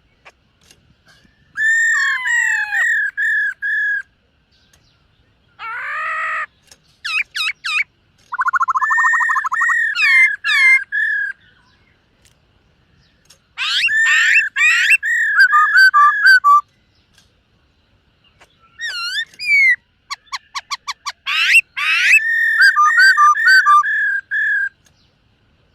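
Black-throated laughingthrush singing: loud, clear whistled phrases of repeated notes, quick trills and sweeping slurs, given in four bursts with short pauses between.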